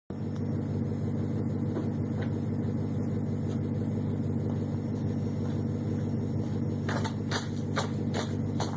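BMW 545i E60's 4.4-litre V8 with the muffler deleted, idling steadily with a deep, even rumble and no revving. Short sharp footsteps start about seven seconds in.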